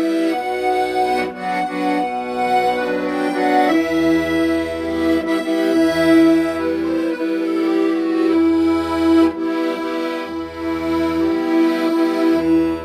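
Accordion playing a slow, sustained melody over low bass notes that come in and out in a regular pattern.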